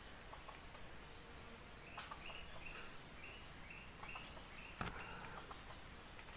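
Steady high-pitched drone of insects in tropical woodland, with a run of short, evenly repeated high chirps from about a second in and a couple of faint clicks.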